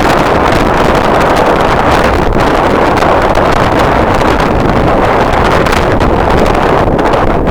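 Strong wind blowing across the microphone: a loud, steady rushing noise with no let-up.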